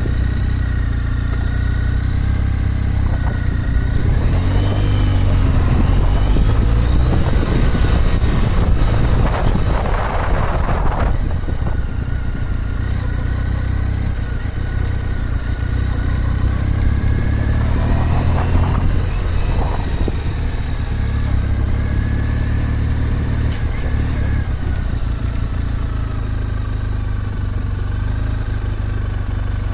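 Motorcycle engine running under way, its pitch rising and falling with the revs, over a heavy low rumble.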